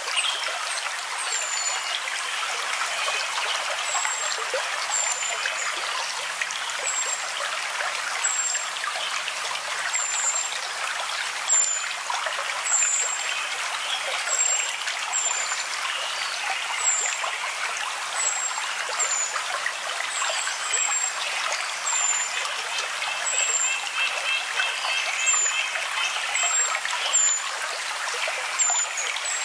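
Running water trickling and flowing in a steady stream, with short, high chirps about once a second over it.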